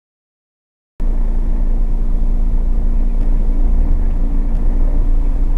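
Silence, then about a second in a car's engine and road noise cut in abruptly, as a dash cam picks them up: a steady low rumble with a faint hum.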